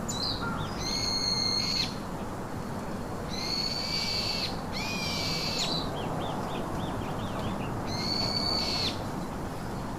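A bird giving four drawn-out high calls of about a second each, each ending in a downward slide, with a quick run of short chirps from another bird between them, over a steady background hiss.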